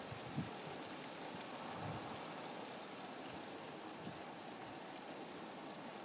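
Steady rain falling, an even hiss and patter, with a couple of soft low thumps about half a second and two seconds in.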